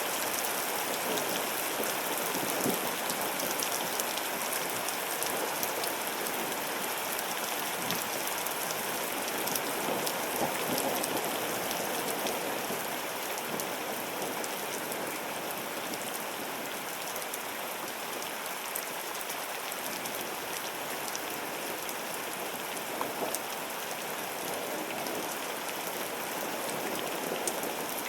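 Thunderstorm rain falling steadily, with many fine ticks of drops striking surfaces.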